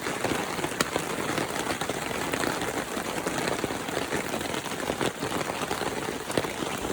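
Steady heavy rain falling, an even hiss with a few sharper drop ticks scattered through it.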